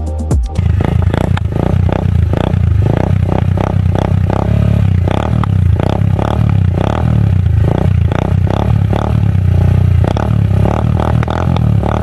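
Motorcycle engine running through an Akrapovic aftermarket exhaust: a loud, steady low drone broken by quick, uneven pulses. A short tail of music fades out in the first half second.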